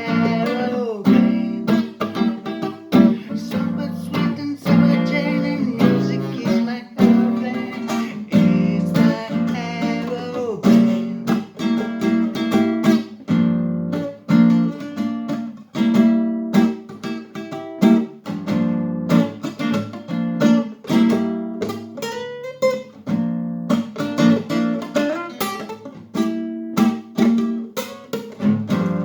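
Acoustic guitar strummed in a steady rhythm: an instrumental guitar passage.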